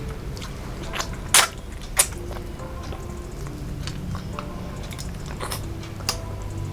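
Close-miked eating sounds: chewing and biting, with a few sharp clicks or crunches, the loudest about a second and a half in, over a low steady hum.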